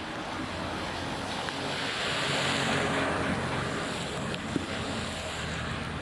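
Heavy rain and rushing floodwater, with a steady low hum underneath. The water noise swells louder about two seconds in, then settles.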